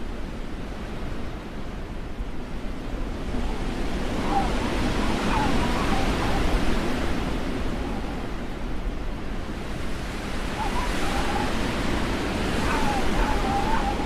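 Blizzard wind: a steady rushing that swells in two gusts, each with a wavering, howling whistle, the first about four seconds in and the second near the end.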